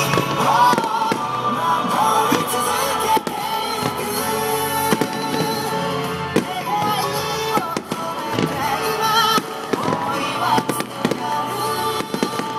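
Fireworks bursting with sharp bangs every second or two over a J-pop song with singing, played over loudspeakers for a fireworks show synchronized to music.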